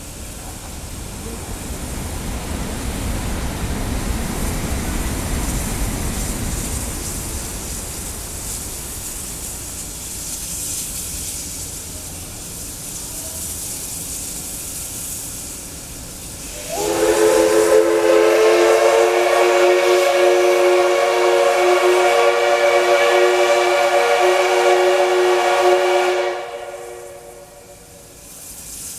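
Steam locomotive departing, hissing as it vents steam, then its steam whistle sounds one long, steady, chord-like blast of about nine seconds that starts a little past halfway and cuts off near the end.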